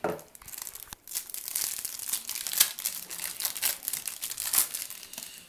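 Plastic wrapping on a trading-card box being torn open and crinkled, a dense run of crackles with a couple of sharper rips.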